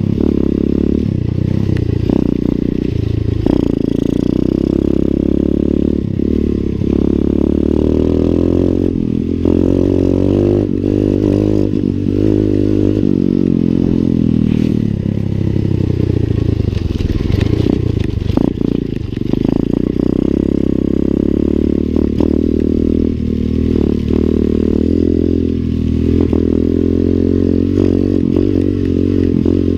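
Single-cylinder four-stroke 125 cc Lifan pit bike engine running under load as the bike is ridden, its pitch rising and falling with throttle and gear changes, with scattered rattling knocks.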